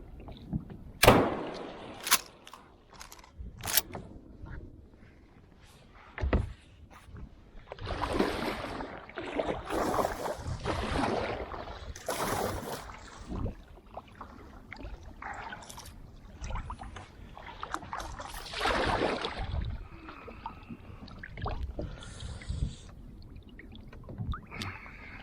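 Kayak paddle strokes swishing and splashing in the water, with a few sharp knocks of the paddle against the hull in the first few seconds.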